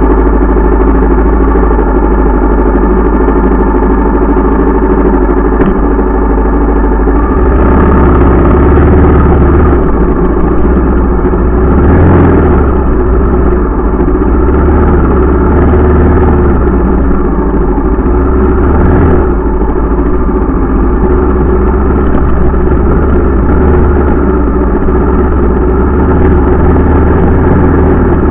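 Honda XR650L dirt bike's air-cooled single-cylinder four-stroke engine running at low, steady revs while the bike is ridden slowly over rough ground. The engine note steps up about a quarter of the way in, and rises briefly twice more with blips of throttle.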